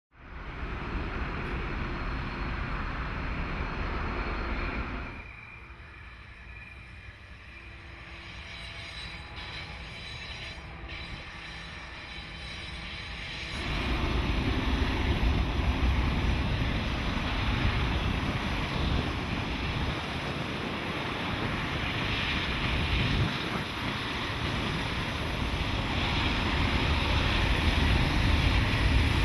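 Train running past, a steady low rumble with wind on the microphone. The sound drops abruptly about five seconds in and comes back louder after about thirteen seconds.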